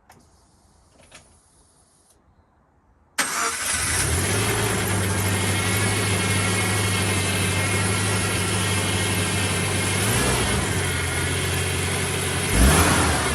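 Suzuki M16A 1.6-litre inline-four engine, swapped into a Jimny, running at a steady idle; the sound comes in abruptly about three seconds in, after a few faint clicks, and there is a short rev with rising pitch near the end.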